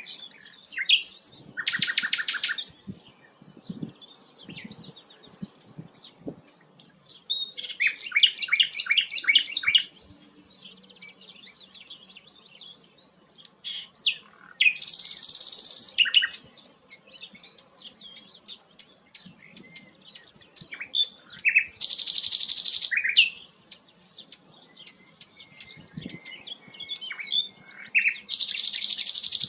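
Sikatan londo (grey-headed canary-flycatcher) singing: scattered high chirps and whistles, broken about every six or seven seconds by a loud, very fast trill lasting one to two seconds.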